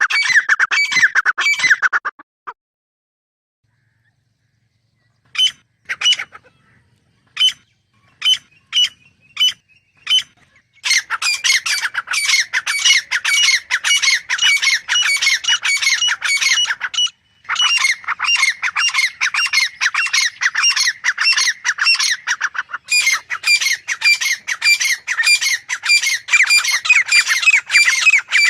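Grey francolin calling in loud, fast repeated series of shrill notes. A run of calls breaks off near the start, and after about three seconds of silence a few spaced single notes lead back into long rapid series with brief pauses between them.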